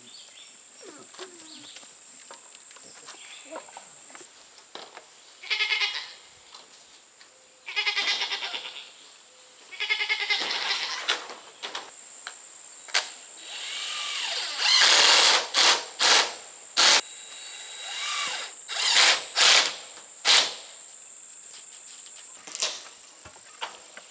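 Goats bleating, three wavering calls in the first half. They are followed in the second half by a run of short, loud, noisy bursts, the loudest sound here.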